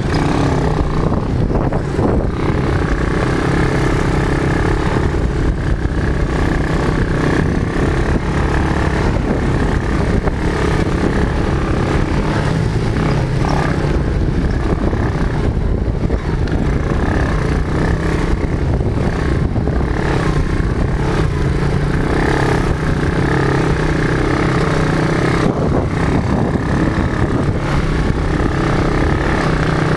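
Quad bike (ATV) engine running steadily and loud, its pitch rising and falling a little with the throttle.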